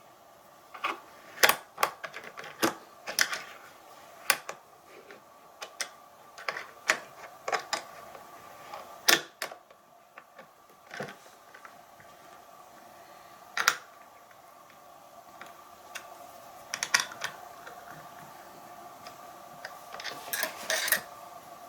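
Irregular sharp metallic clicks and clinks, some in quick clusters, of a wrench and bolt being worked as a stainless 1/4-20 bolt is tightened into a serrated flange nut, over a faint steady hum.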